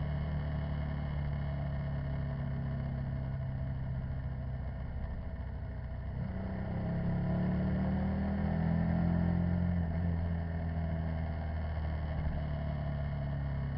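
Motorcycle engine running at a steady speed, picking up revs about six seconds in and easing back off a few seconds later.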